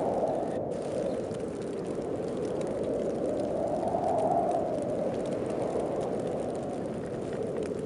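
Snowstorm wind blowing steadily, swelling into a stronger gust about four seconds in and then easing.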